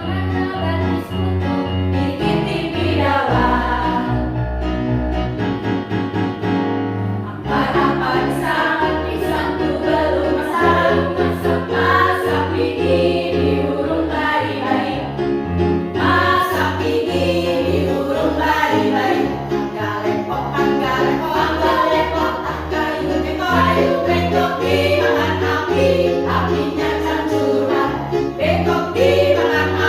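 A choir singing with instrumental accompaniment, sustained low chords moving in steps beneath the voices.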